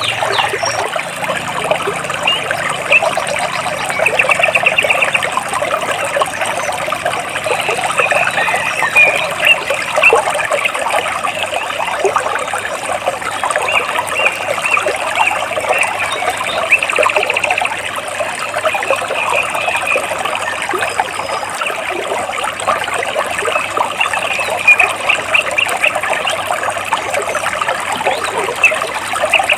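Stream water trickling and splashing between rocks, steady throughout, with small birds chirping and giving rapid trills now and then over it.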